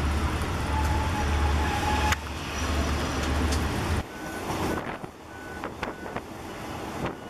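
Steady low rumble of the diesel train and the station around it, cut off suddenly about four seconds in. Then quieter running noise of the moving train heard through an open carriage window: a hiss of wind with scattered sharp clicks.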